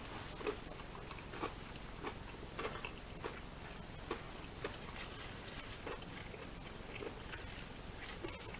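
A person chewing food close to the microphone: soft, faint mouth clicks about every half second.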